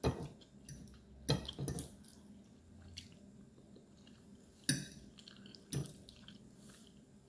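A person chewing food close to the microphone, with a few sharp wet clicks and smacks spread through.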